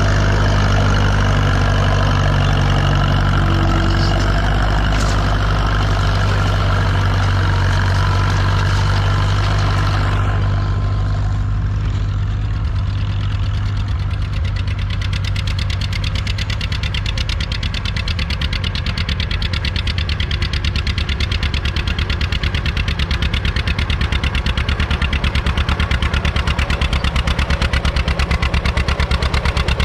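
Classic farm tractor engine running steadily; about a third of the way in the sound changes to a distinct, even pulsing engine beat that grows slightly louder toward the end.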